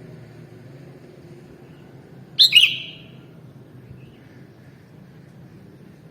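Sooty-headed bulbul (kutilang) giving one short, loud call about two and a half seconds in, over a steady low hum.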